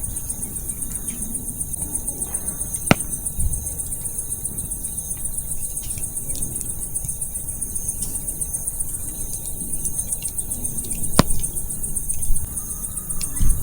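Wood campfire burning with a low crackle, the firewood giving sharp pops about three seconds in and again near eleven seconds. Insects chirp steadily throughout in a high, even pulsing trill.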